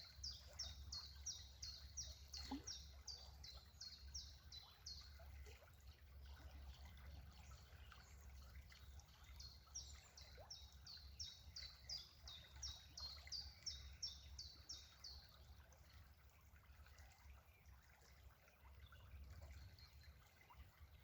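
A bird singing a quick series of high, repeated notes, each sweeping downward, in two runs: the first fades out about five seconds in, the second runs from about ten to fifteen seconds in, over a faint steady hum.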